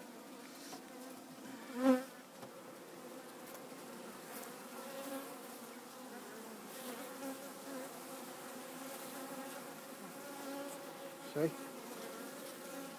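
Honeybees of a busy colony in an opened top bar hive, humming as a steady, wavering many-toned buzz. A brief louder swell rises out of it about two seconds in.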